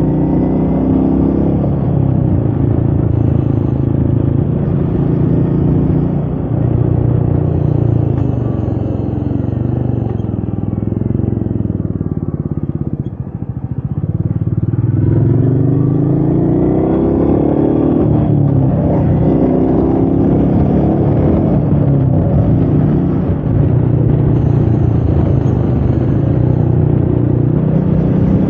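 Royal Enfield Meteor 350's single-cylinder engine running under way. Its revs fall away to a low point about halfway through, then climb again as the bike pulls on.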